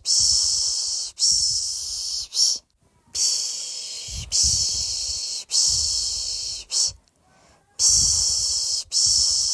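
A person shushing a baby to sleep with long 'shhh' sounds, the Turkish 'piş piş': hissing strokes of about a second each in runs of three, with short pauses between runs and a low breathy rumble at the start of each stroke.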